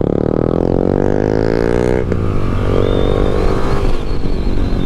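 Motorcycle engine accelerating hard: the revs climb for about two seconds, cut briefly at an upshift, then climb again in the next gear.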